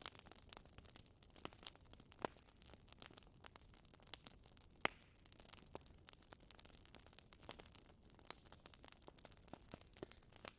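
Wood fire crackling in a fireplace: a faint steady hiss with irregular small snaps and pops, and one sharper pop about five seconds in.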